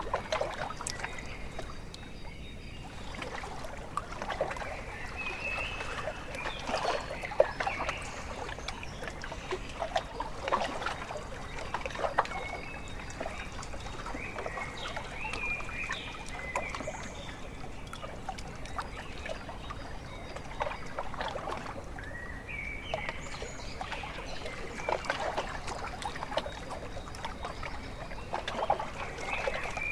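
Small lake waves lapping and splashing irregularly at the shore, with short high bird calls now and then.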